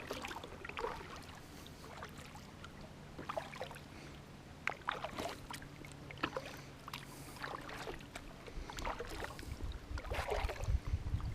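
A kayak being moved along on the water: scattered small splashes and light knocks against the hull, with a faint low hum for several seconds.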